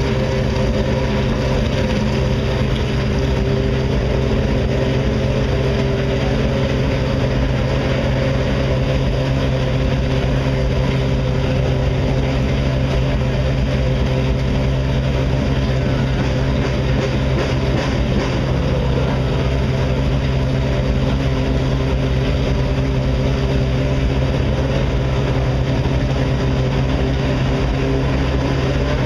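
Ferrari 458 Italia GT2 race car's 4.5-litre V8 idling at a steady pitch while warming up.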